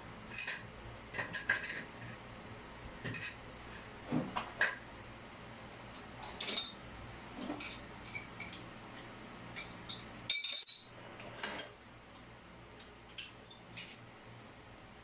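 Irregular light clinks and clicks of small hard parts being handled, about a dozen short taps with a little high ringing, one slightly longer rattle about ten seconds in; typical of plumbing fittings and hand tools being picked up and set down during a shower valve fitting job.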